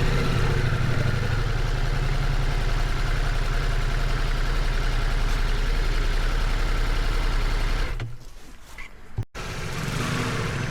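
Ducati Multistrada V4 motorcycle's V4 engine running steadily at a low, even speed; about eight seconds in the sound drops away abruptly, breaks off for a moment, and the engine is heard running again near the end.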